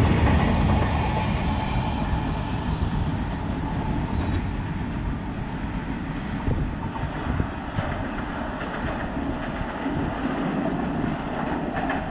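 Loaded oil tank wagons of a fast freight train running past on the rails, a heavy wheel-and-rail rumble that fades after the first second or so as the last wagons go by and the train draws away.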